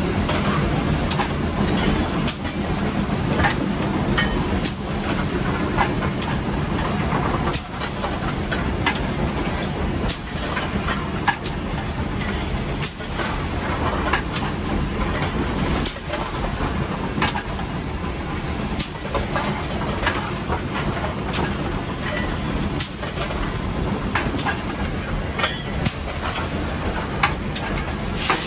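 Inside the cab of Nevada Northern No. 81, a steam locomotive under way: a steady loud hiss and rumble of steam and running gear, broken by sharp clicks about every second or so.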